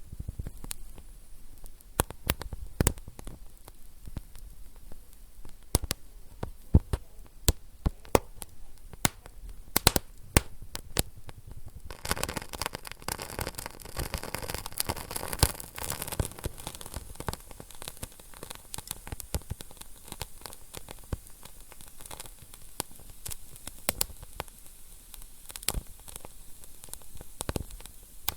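Wood fire in a fireplace crackling, with irregular sharp pops and snaps over a low hiss. From a little under halfway through, the crackle grows denser and hissier for a few seconds, then thins out again.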